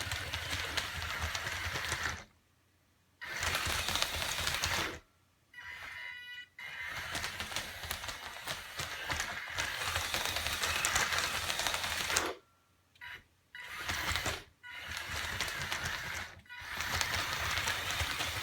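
Small electric motors running a DIY Strandbeest's walking leg linkage, a dense rapid clatter of clicks and rattles. It comes in several runs of one to five seconds broken by short silent gaps.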